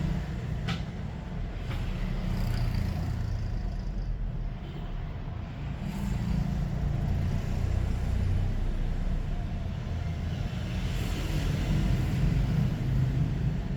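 Steady low rumble of road traffic, swelling and easing slowly, with a faint click less than a second in.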